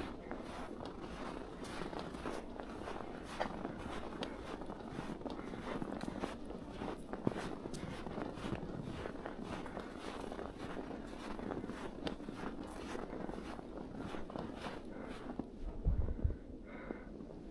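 Footsteps crunching through snow at a steady walking pace, with a few low thumps of wind on the microphone near the end.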